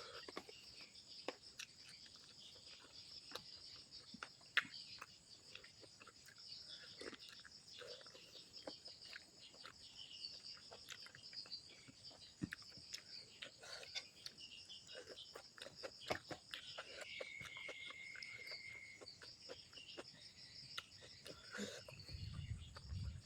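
Quiet eating sounds: chewing, lip smacks and small clicks scattered throughout, over a steady high chirring of insects. About seventeen seconds in, a steady high tone lasts about two seconds.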